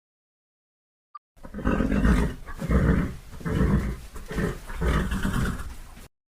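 A horse making a series of about five low-pitched, breathy pulses, roughly one every three-quarters of a second. It starts about a second and a half in and cuts off suddenly just before the end.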